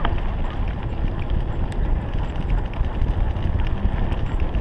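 Steady rough rumble and crunch of moving along a dirt trail behind a running sled dog, with scattered light ticks and knocks. There is wind noise on the microphone.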